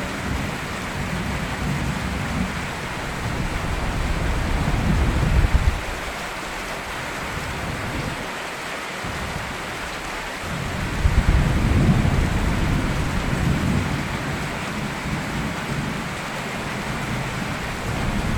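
Steady rain falling, with low rolling thunder swelling twice, around five seconds in and again about eleven seconds in.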